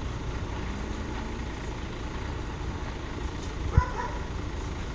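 A vehicle engine running steadily with a low rumble, with one sharp knock near the end.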